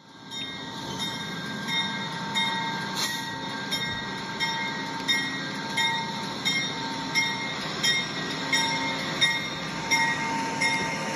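Train running along the track, with a regular click about every 0.7 seconds over a steady whine.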